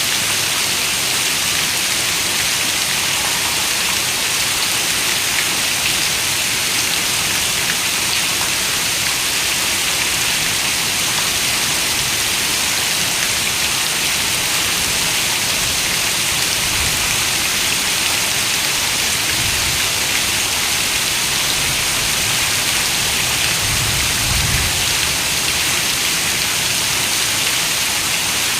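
Steady rain falling on a window, an even dense hiss with no pauses, with a few faint low rumbles in the second half.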